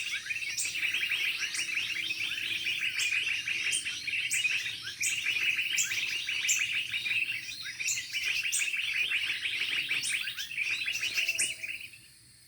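Small songbird singing a fast, continuous twittering chatter with sharp high notes about twice a second, stopping shortly before the end.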